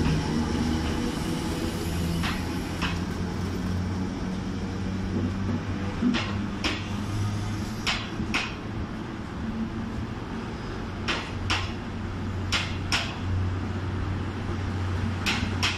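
A locomotive-hauled passenger train pulling slowly out of a station past the platform: the coaches roll by with a steady low hum, and their wheels click over rail joints in pairs, about five pairs from about six seconds in.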